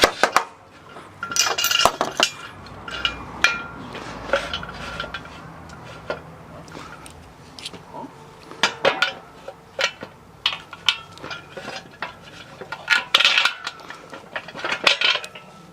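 Irregular metallic clinks and clanks of metal parts being handled, coming in small clusters with some ringing briefly.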